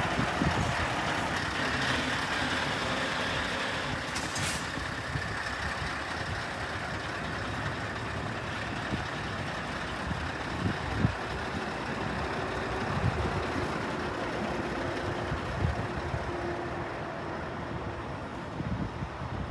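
Scania R590 truck's V8 diesel engine running, with wind buffeting the microphone. A brief hiss comes about four seconds in.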